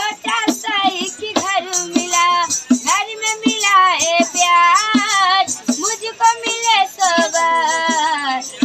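A young girl singing a Hindi song in a clear, high voice, holding and bending long notes, with short sharp taps keeping the rhythm.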